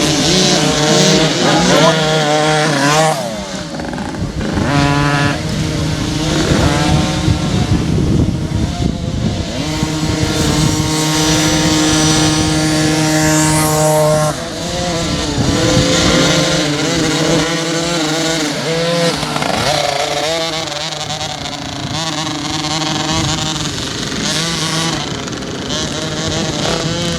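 50 cc motocross bikes racing, their small engines revving up and down through the gears, with stretches where one engine holds a steady pitch for a few seconds.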